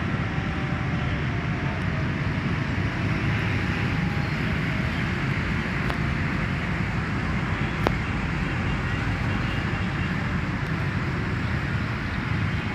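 Steady road-traffic rumble, a continuous even noise with no distinct passes, broken by two sharp clicks about six and eight seconds in.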